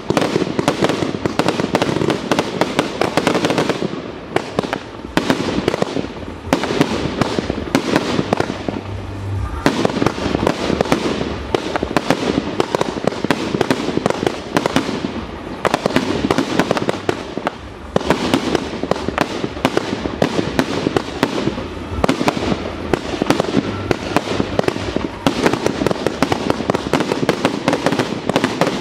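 Fireworks display: a dense, unbroken run of aerial shell bursts and crackling, one report hard on the next.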